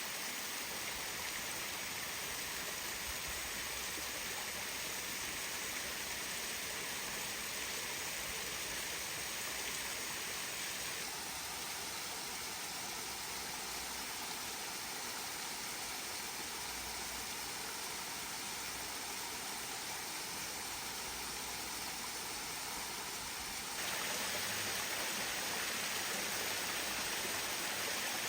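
Waterfall water rushing steadily, a continuous even hiss. The sound changes suddenly twice, the second time getting a little louder.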